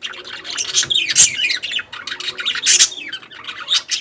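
Several pet budgerigars chirping and chattering together: a constant run of short, high chirps with a few louder calls.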